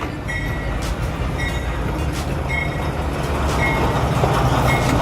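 Train arriving at the platform: a low rumble that grows louder, with a bell dinging about once a second.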